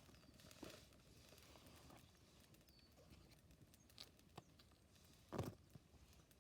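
Faint, scattered crackles and pops from a wood campfire, with one louder knock about five seconds in.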